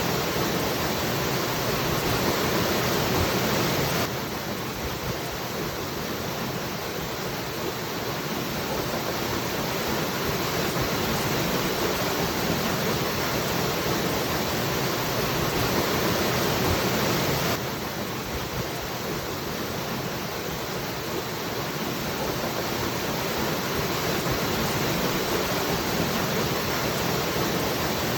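Waterfall, water falling and splashing in a steady rush with no pauses. The level drops suddenly about four seconds in and again about three-quarters of the way through, then slowly builds back up each time.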